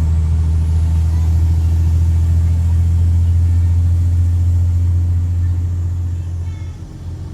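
Straight-piped Cummins C8.3 six-cylinder diesel running hard under throttle, a loud, steady, deep exhaust drone that comes on suddenly, holds, then eases off near the end as the throttle is let off.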